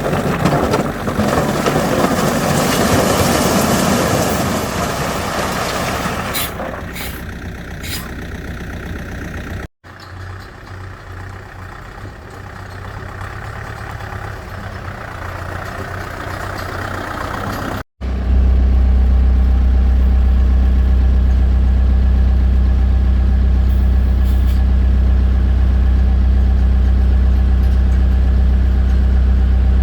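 Heavy machine's engine running, heard in three edited stretches: a louder, rougher run that fades, a quieter stretch, then from about two-thirds of the way in a loud, steady, low hum.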